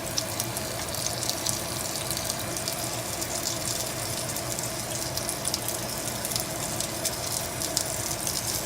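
Chicken pieces sizzling and crackling in hot oil in a frying pan as more coated pieces are added, over the steady hum of the range hood fan.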